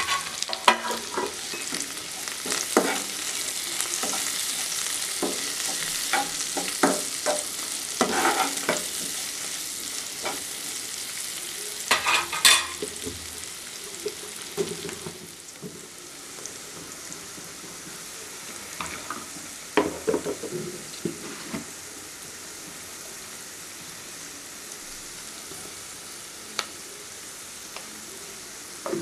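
Sliced onions, curry leaves and dried red chillies sizzling in hot oil in a nonstick kadai, with a spatula scraping and stirring against the pan now and then. The sizzle is louder in the first half and settles to a quieter, steady hiss after about fifteen seconds.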